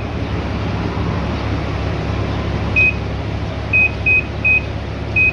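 An Infinity 8 kg automatic washing machine's control panel beeps five short, high beeps at irregular intervals in the second half, over a steady low hum.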